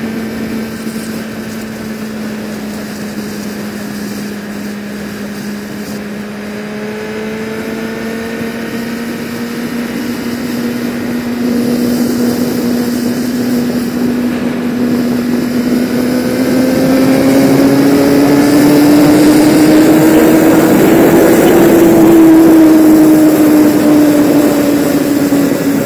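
Sport bike engine running steadily under way, its note climbing and growing louder in the second half as it speeds up, then easing off a little near the end.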